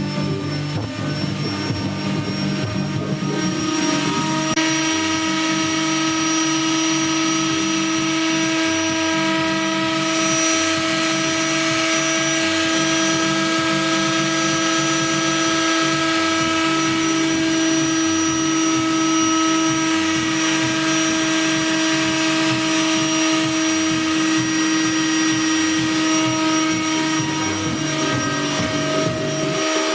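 Loud, steady machine-like drone played through loudspeakers: several held tones over a hiss, with a strong low tone setting in about four seconds in and the pitch shifting again near the end.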